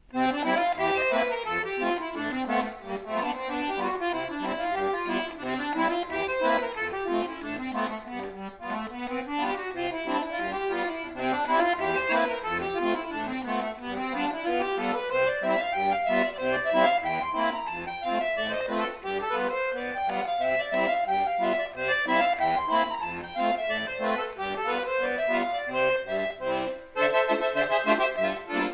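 Solo accordion playing a lively piece in quick runs of notes that rise and fall again and again, the texture thickening near the end.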